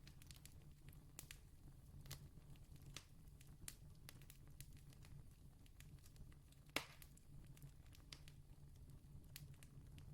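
Campfire crackling faintly: scattered sharp pops and snaps, one louder pop about seven seconds in, over a low steady rumble.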